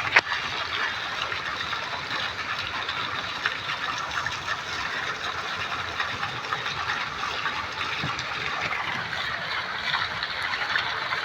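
Fountain water splashing steadily into a pool, an even crackling rush, with one brief sharp knock just at the start.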